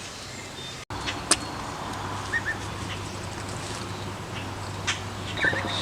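Ducklings giving a few short, soft peeps over a steady low background hum, with a sharp click a little over a second in.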